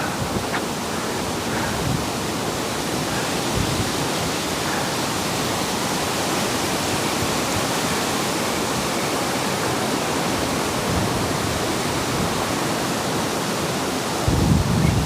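Steady, even outdoor rushing noise with no distinct events. A louder low rumble comes in near the end.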